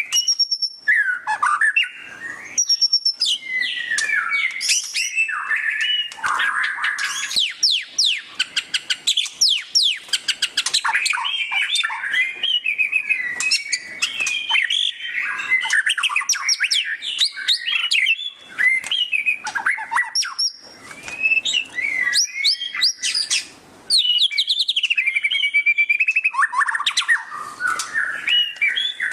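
White-rumped shama (murai batu) singing loudly and continuously in a varied stream of whistles, sweeps and fast chattering trills (the 'ngeriwik' style), with a long run of rapidly repeated notes from about 7 to 11 seconds in.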